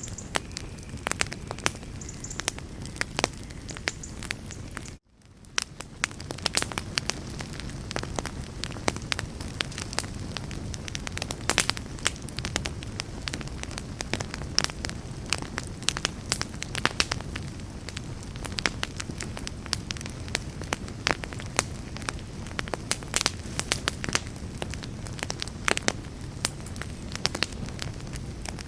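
Campfire crackling: a steady low rush of flames with frequent sharp pops and snaps. About five seconds in the sound cuts out for a moment, then fades back in.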